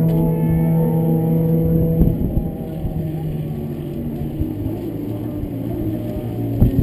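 Sport motorcycle engine running at a steady pitch, then dropping to a lower pitch about two seconds in.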